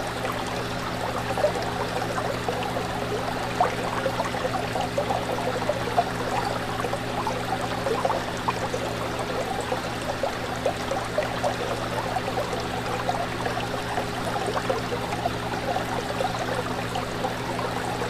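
Fish tank water bubbling and splashing in a dense, continuous patter, over a steady low hum.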